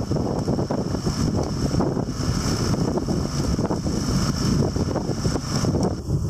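Small engine of a walk-behind cultivator running steadily while it pulls a hilling ridger through the soil, with wind buffeting the microphone.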